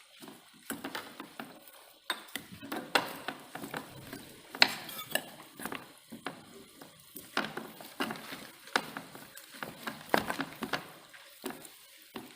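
A spoon knocking and scraping against a bowl while boiled potatoes are mashed with its back, in irregular clinks and taps.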